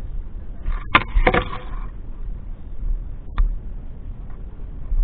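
Wind buffeting an action camera's microphone as a steady low rumble, with two sharp knocks about a second in and a single click a little past the middle.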